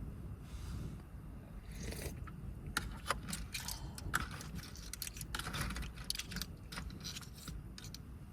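A run of small clicks, rattles and scrapes, like small hard objects being handled, from about three to seven seconds in, over a steady low rumble.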